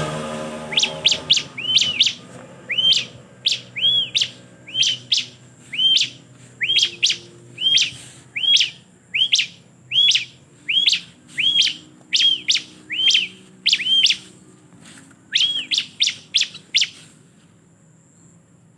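Ciblek (bar-winged prinia) calling: a long series of short, sharp chirps that sweep up and arch over, repeated about once or twice a second with some quick clusters, stopping about 17 seconds in.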